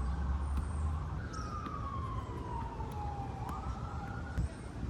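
An emergency-vehicle siren wailing: one slow falling tone, then a quick rise back up about three and a half seconds in, over a low rumble that is strongest in the first second.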